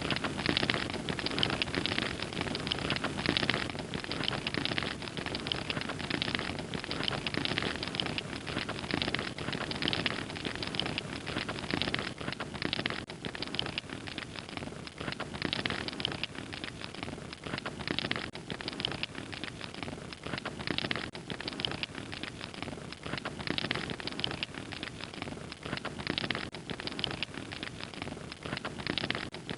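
Wood fire crackling steadily, with dense small pops and snaps throughout.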